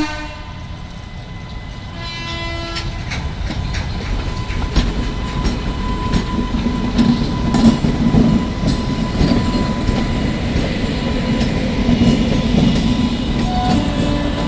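Indian Railways parcel van train running past, its wheels clattering over the rail joints and the rumble building as it comes closer. A short horn blast sounds about two seconds in.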